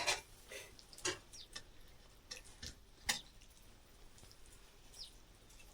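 Scattered light clicks and taps, about eight spread unevenly, the sharpest about three seconds in, with a brief high falling chirp near the end.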